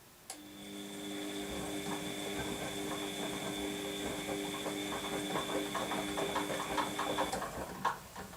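Washing machine motor turning the drum: it starts suddenly, runs for about seven seconds with a steady whine and rattling clicks, then stops with a few last clicks. This is the on-off drum turning of the wash phase.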